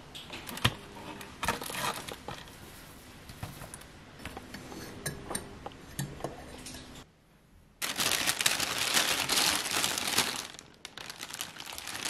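Light clicks and handling of a metal mesh tea infuser ball. After a short pause, a paper bakery bag crinkles loudly for about three seconds as it is opened.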